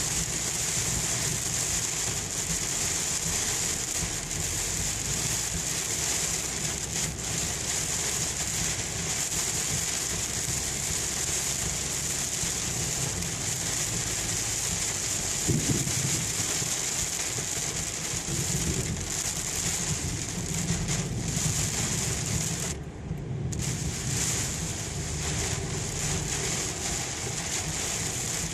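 Heavy rain drumming on a car during a thunderstorm, heard from inside the moving car as a dense, steady hiss over low road rumble. A brief louder low thump comes about fifteen seconds in, and the hiss drops out for a moment about twenty-three seconds in.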